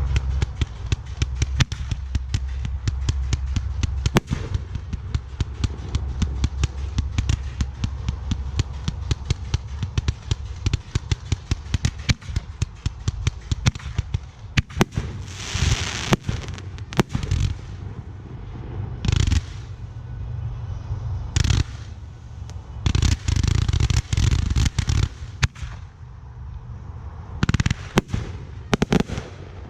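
Aerial fireworks going off: a rapid, close-packed string of sharp reports for roughly the first fourteen seconds, then louder bursts at wider spacing, several trailing off in a hissing crackle.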